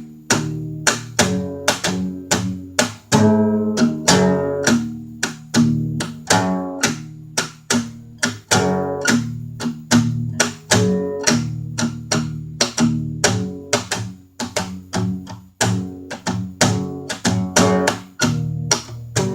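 Guitar playing blues: a steady run of sharply plucked notes and strums.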